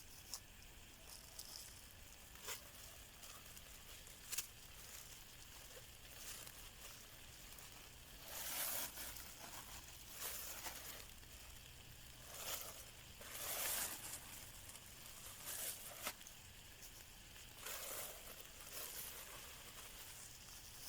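Campfire of logs with sparse sharp crackling pops, then several short hissing, rustling bursts about a second long each.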